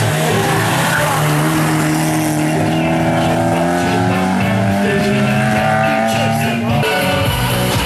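Race car engine at high revs under load, its pitch climbing slowly and steadily for several seconds before changing abruptly near the end, as at a gear change or as the car passes.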